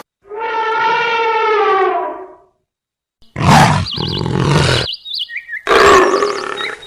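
Edited sequence of animal calls. First a single pitched call of about two seconds, falling slightly at the end. After a brief gap come two loud, rough calls, with warbling bird chirps over them.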